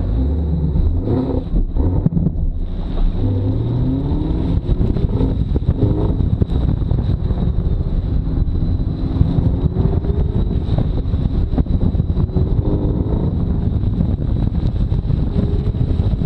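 Chevrolet Camaro ZL1 1LE's supercharged V8 engine pulling through an autocross run on a wet surface. The revs rise and fall as the throttle is fed in and lifted, over a steady hiss of wind and water spray.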